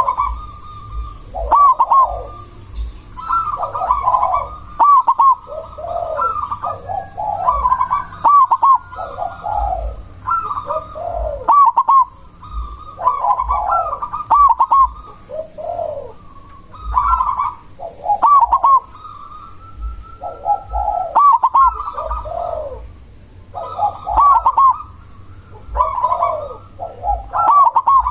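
Perkutut cemani, a black-plumaged zebra dove, cooing its song loudly. Each short rhythmic phrase follows the last every second or two, with a faint steady high whine beneath.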